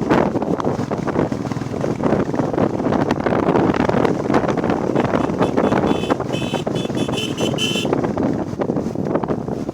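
Wind rush and running noise of a Royal Enfield Bullet Classic 350 motorcycle on the move. About two-thirds of the way in, a horn sounds a quick series of short toots lasting a couple of seconds.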